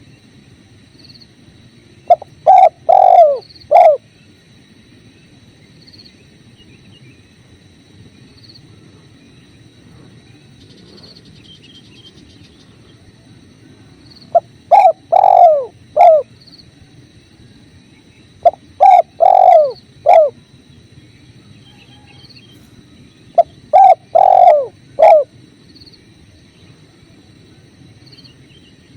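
Spotted dove (tekukur) cooing: four phrases, each a short run of low coos lasting about two seconds, spaced several seconds apart, over the steady low rush of a flowing river.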